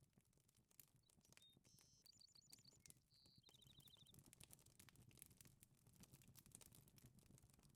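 Near silence: faint outdoor forest ambience with scattered small ticks and a brief high bird call, a few short notes and a quick trill, about two to four seconds in.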